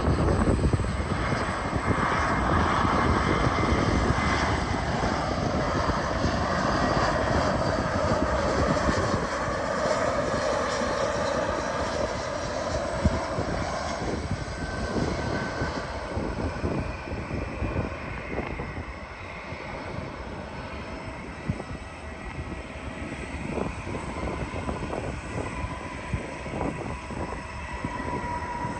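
Jet airliner coming in to land passes by, its engine whine sliding down in pitch as it goes over and then fading away over the following seconds.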